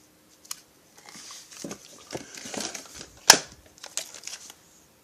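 Plastic packaging crinkling and rustling as chainsaw kit parts are unwrapped and handled, with several light clicks and one sharp knock about three seconds in.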